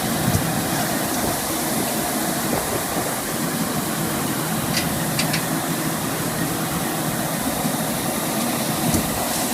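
Truck engine running steadily, with a few brief clicks about five seconds in and once near the end.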